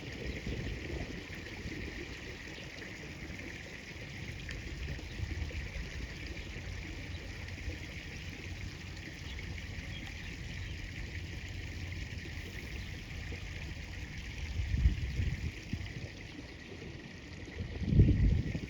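Steady rush of river water flowing, with low rumbling swells about fifteen seconds in and again near the end.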